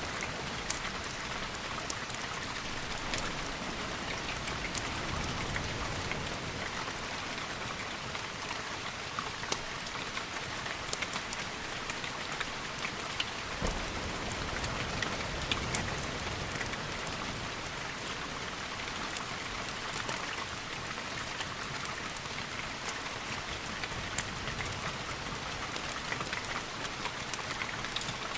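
Steady rain falling, with many small sharp ticks scattered through it and one sharper click about halfway through.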